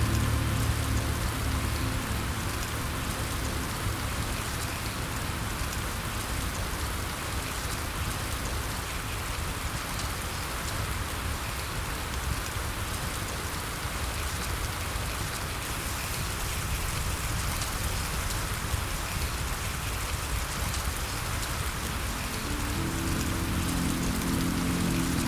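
Steady rain falling, an even dense hiss. Soft low music fades out in the first couple of seconds and comes back in near the end.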